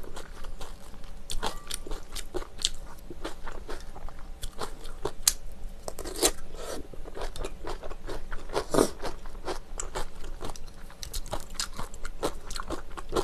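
Close-miked eating of spicy bibim noodles and kimchi: wet chewing and crunching, with many irregular small clicks and smacks.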